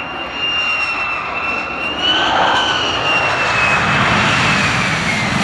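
Fighter jet's engine running after landing: a high whine that bends up slightly about two seconds in and then slides down in pitch, over a steady rush of jet noise that grows louder partway through.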